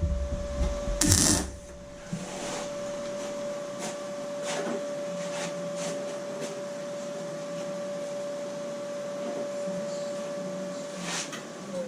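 A small electric power-tool motor running steadily at high speed with a thin whine, switched off near the end and winding down in falling pitch. There are a couple of loud knocks in the first second or so.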